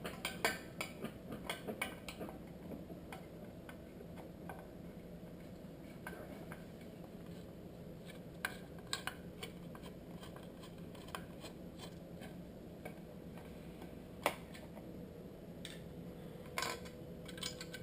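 Faint, scattered clicks and ticks of a screwdriver and small parts against a plastic headlight housing as a screw is worked out of a cover. The clicks come quickly over the first few seconds, then sparsely, with a sharper click about 14 seconds in.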